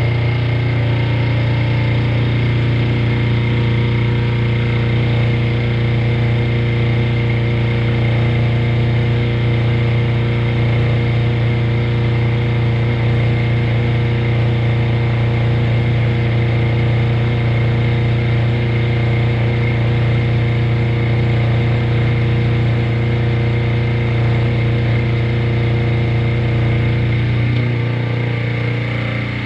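Milling machine running at a steady speed: a strong low motor hum with a thin higher whine over it. It slows and drops away near the end.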